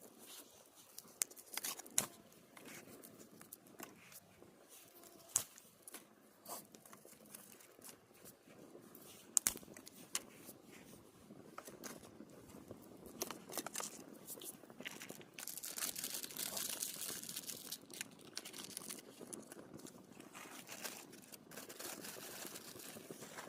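Campfire wood burning, crackling with scattered sharp pops; the crackle grows denser and hissier in the second half.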